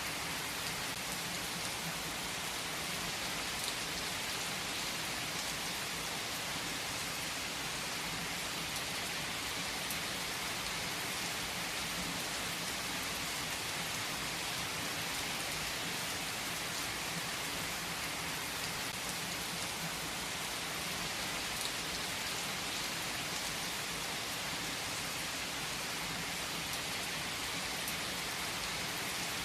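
Steady rain falling and pattering on a surface, an even, unbroken hiss.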